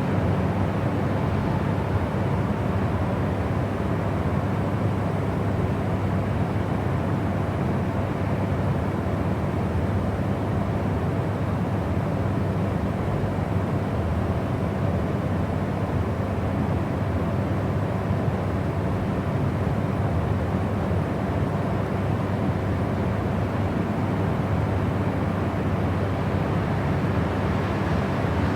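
Steady, unbroken noise played as a white-noise track, deep and heavy in the low end with little treble, like a constant drone.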